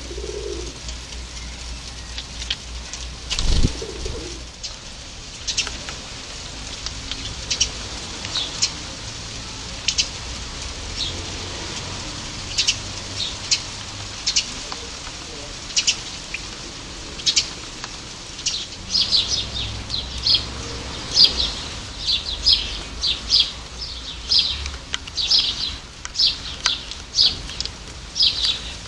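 Garden birds chirping in short high calls, which come more often in the second half. A pigeon coos at the start, and there is a brief thump about three and a half seconds in.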